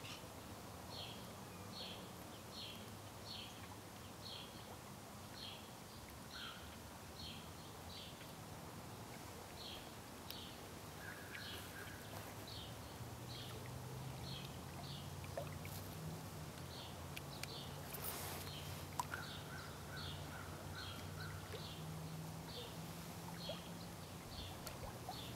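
Faint lakeshore ambience at dusk: a small bird calls with short high chirps, repeating about once or twice a second and often in pairs. A low distant hum grows louder in the second half, and there is a brief rushing burst about 18 seconds in.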